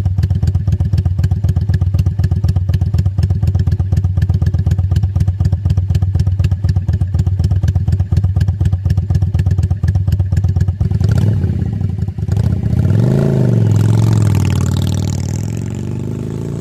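Yamaha Drag Star 400's carbureted V-twin running through a 70 mm slash-cut aftermarket muffler, idling with an even, loping beat. About two-thirds of the way through, the beat gives way to a rising note that dips and then holds higher and louder as the engine is revved.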